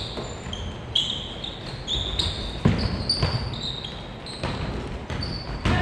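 Basketball game in a gym: the ball bounces on the hardwood with a few sharp thuds, and sneakers squeak briefly on the court, in a reverberant hall.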